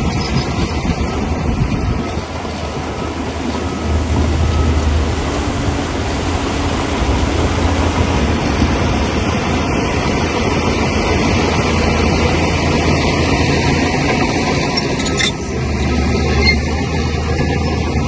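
Shantui crawler bulldozer working, its diesel engine running steadily under a dense mechanical clatter, with the low engine note swelling at times. A single sharp click about fifteen seconds in.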